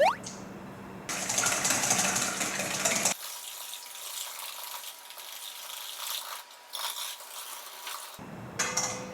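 Eggs being whisked in a bowl, the whisk scraping and rattling against it; the whisking is loudest in the first few seconds. A short rising whistle-like glide opens it.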